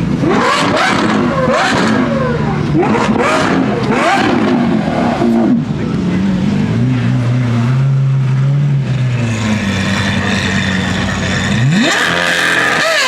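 Performance car engines revving and accelerating hard, the pitch climbing steeply several times in the first few seconds as they pull through the gears. A steadier, lower engine note follows, then near the end one engine revs up sharply and holds a high note.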